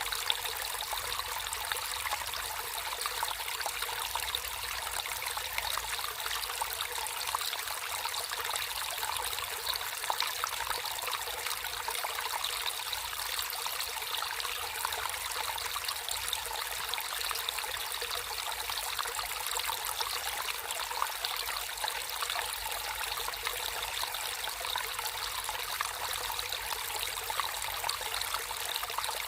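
Water of a natural stream trickling and splashing over stones, a steady bright flow with small flickering splashes.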